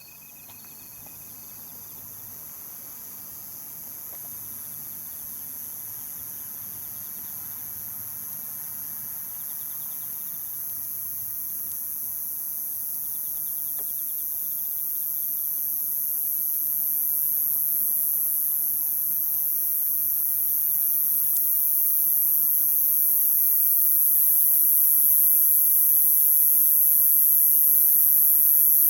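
Night chorus of crickets and other insects: a steady, high-pitched shrill trilling with faint pulsed chirps beneath it, growing gradually louder.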